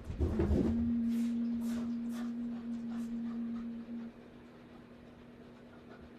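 A single voice holding one steady low chanted note for about four seconds, starting with a brief waver and then stopping.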